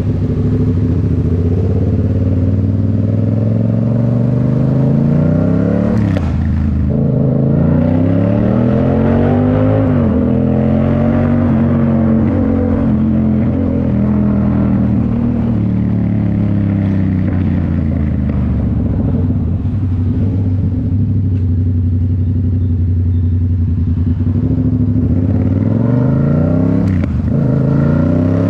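2019 Yamaha MT-07's parallel-twin engine through a Toce full exhaust, running loud under way. Its pitch climbs and falls again and again with throttle and gear changes, with a short break and fresh climb about six seconds in and again near the end.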